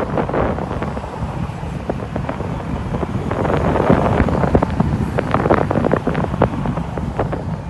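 Wind buffeting the microphone: a steady low rumble with many irregular crackles and clicks, heaviest in the middle.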